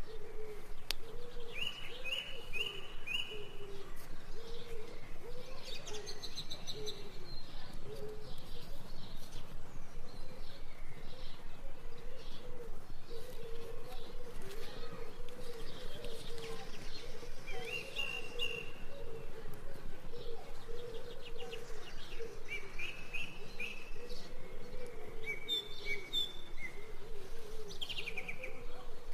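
Birds chirping and trilling in short repeated phrases, over a continuous low, wavering, evenly pulsing call.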